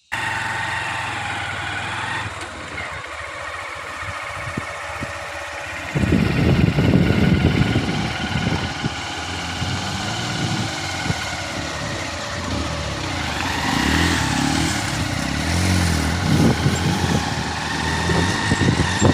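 Motorcycle engine running steadily while riding, heard from on the bike; about six seconds in the sound gets suddenly louder with a rough low rumble that stays to the end.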